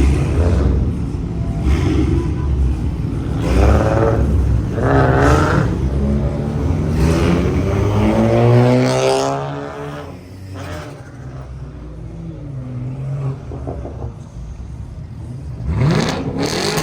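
Car engines with loud piped exhausts revving hard several times, each rev rising and falling, through the first nine seconds. After that they settle to a lower rumble, and there is one more rev near the end.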